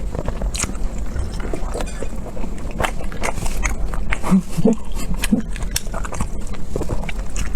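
Close-miked eating: wet chewing, smacking and biting clicks from a person's mouth, in quick irregular succession.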